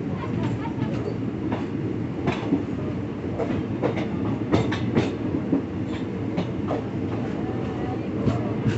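A passenger train running, heard from inside the carriage: a steady low rumble with sharp, irregular clicks as the wheels pass over the track. The clicks bunch in the middle and again near the end.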